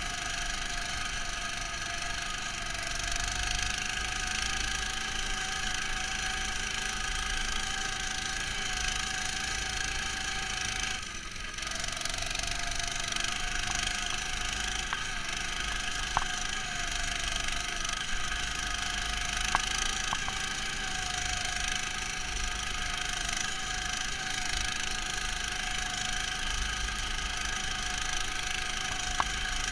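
Neva MC-1 snowmobile engine running steadily under way, muffled inside the camera's housing. It dips briefly about eleven seconds in, and a few sharp clicks come through later.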